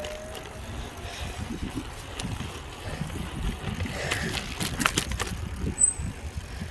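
Wind rumbling on the microphone while riding a bicycle, with a few sharp clicks about four and a half to five seconds in and a brief high chirp near the end.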